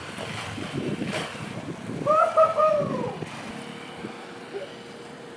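Wind buffeting the microphone over surf, with a brief drawn-out call about two seconds in that rises and then falls in pitch.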